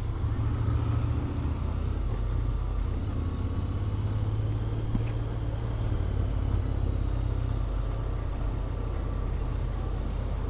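Honda X-ADV 750's parallel-twin engine, on its stock exhaust with an Akrapovic manifold, running at a steady pace under way, a continuous low rumble.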